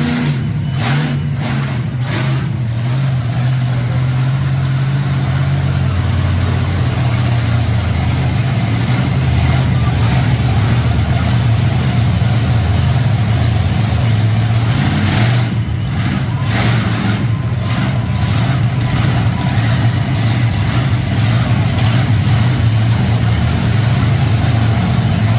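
Monster truck engines running hard and revving through a race, loud and sustained, with short breaks in the high end near the start and again a little past halfway.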